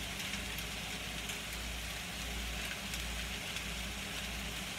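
Shredded rotisserie chicken frying in a pan, a steady sizzle, with a low steady hum underneath.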